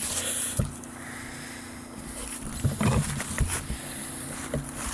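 An engine hums steadily in the background. Close to the microphone come a few knocks and rustles, the loudest cluster about three seconds in.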